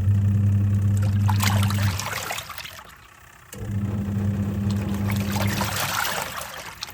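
Twin-tub washing machine's wash tub running a wash cycle: the pulsator motor hums for about two seconds, stops for a second and a half, then runs again, with the laundry water churning and splashing throughout.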